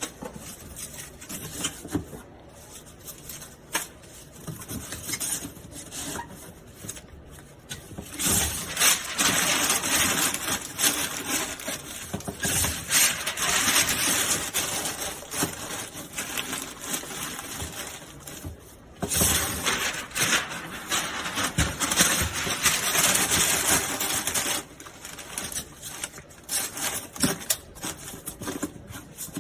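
Cardboard and packing being handled while a battery is packed into a box: rustling, scraping and light knocks. Three longer stretches of steady scraping come about eight, thirteen and nineteen seconds in.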